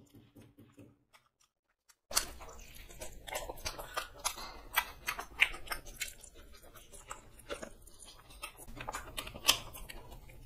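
Chewing and eating sounds, with many short, sharp mouth clicks, as two people eat fried chicken legs, egg rolls and chow mein by hand. The sound begins after about two seconds of near silence.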